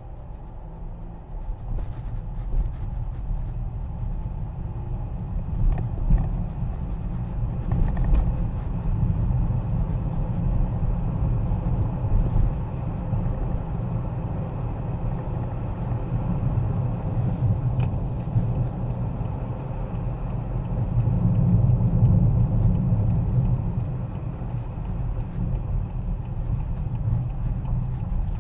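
Steady low rumble of a car driving, with a few faint ticks now and then.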